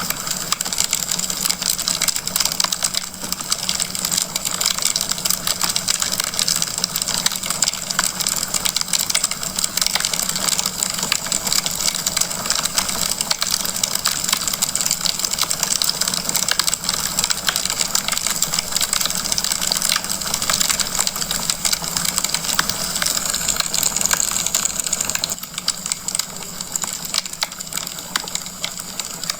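Wood fire crackling in a fireplace: a dense run of small crackles and pops over a steady hiss, a little quieter near the end.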